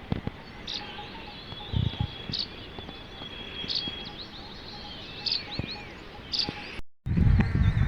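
Small birds chirping outdoors, short high calls repeating about once a second. Near the end the sound cuts out abruptly and louder low rumbling noise takes over.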